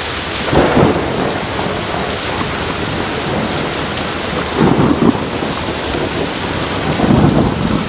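Heavy tropical rain falling steadily, with three brief louder rumbling swells: about a second in, midway, and near the end.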